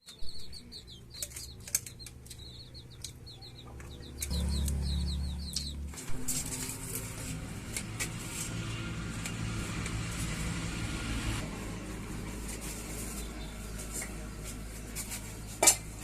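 A small bird chirps in quick repeated series, joined about four seconds in by a low rumble. After that comes a steady rushing noise with a low hum, and a single sharp knock near the end.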